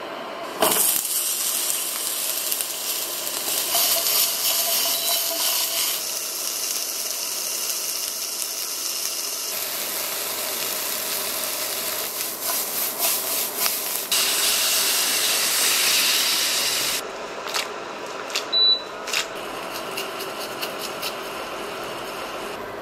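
Onions and bell peppers sizzling as they fry in hot olive oil in a non-stick frying pan: a loud, steady hiss that starts suddenly about a second in and drops away about three quarters of the way through, followed by a few light clicks.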